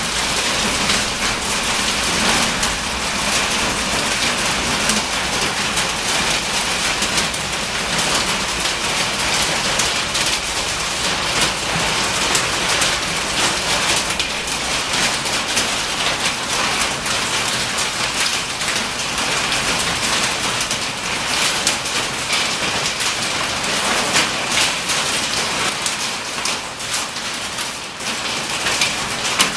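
Hailstones about the size of large marbles pelting a metal building, heard from inside as a dense, steady clatter of countless hits; really loud.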